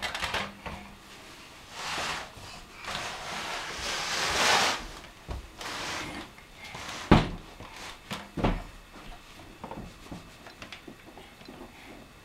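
Scraping and knocking as a piece of household furniture or a box is pushed along the floor like a walker, with a longer scrape partway through and two sharp bangs a little over a second apart.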